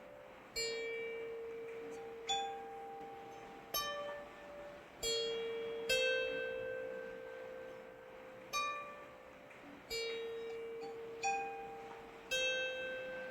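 Slow plucked string notes, one every second or two, each ringing out and fading, with some low notes held for several seconds. Underneath is a faint steady hiss of rain.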